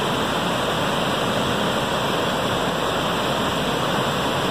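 Waterfall pouring, a steady, loud rush of water with no breaks.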